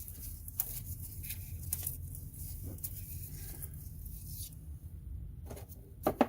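Scattered light clicks and rustles of plastic harness clips and connectors being handled and pried loose, over a low steady hum, with a sharper pair of clicks near the end.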